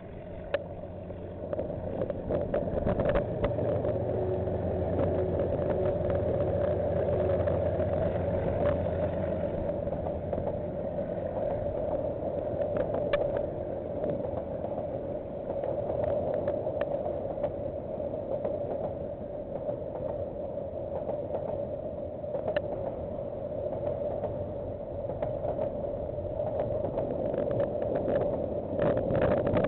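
Diesel-hauled train passing, heard through a security camera's microphone. A low engine hum fades about nine seconds in, and the train's steady rolling rumble continues, with scattered clicks and knocks.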